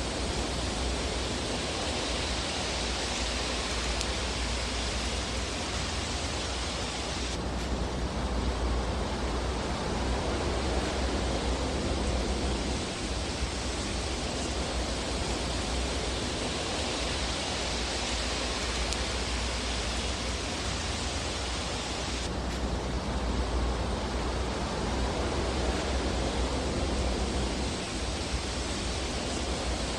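Fire burning in a fireplace: a steady rushing hiss over a low rumble, with no distinct crackles standing out. The hiss changes suddenly twice, about a third of the way in and again near three quarters.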